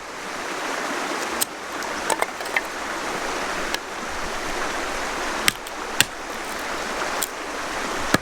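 Sharp cracks and snaps of a carbon-steel bushcraft knife splitting and cutting kindling wood, about eight at uneven intervals, loudest around the middle. They sit over a steady rushing background noise.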